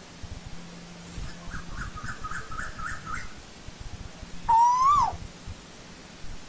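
Asian koel giving a single whistled call that rises slightly and then drops sharply, about two-thirds of the way in. Earlier there is a quick run of about nine short chirping notes, four or five a second.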